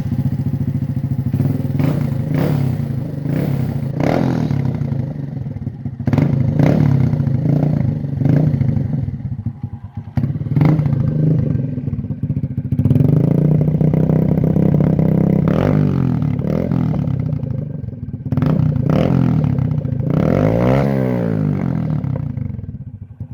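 SSR Razkull 125 pit bike's single-cylinder four-stroke engine running loud through an AR Racing full exhaust with the baffle removed. It idles between a dozen or so throttle blips, revs rising and falling, with a longer held rev in the middle.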